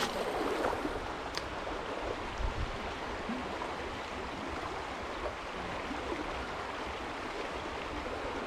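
Steady rush of flowing creek water, with a single click about a second and a half in.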